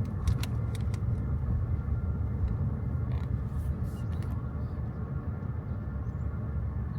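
Road and tyre noise inside a moving electric car's cabin, a Hyundai Kona Electric with no engine sound: a steady low rumble with a few light clicks and taps.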